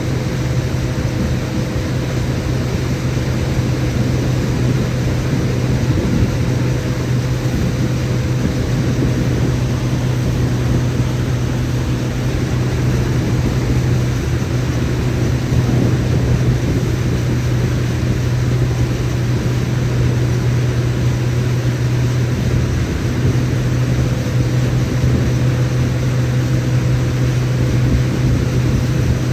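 Boat motor running steadily, a constant low engine hum over a steady rushing noise.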